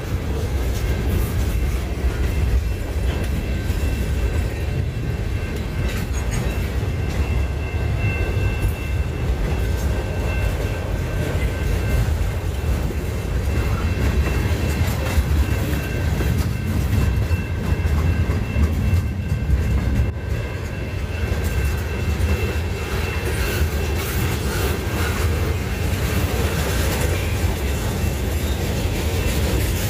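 Freight train cars rolling steadily past, a constant low rumble with the clickety-clack of wheels over the rail joints and a faint high steady whine above it.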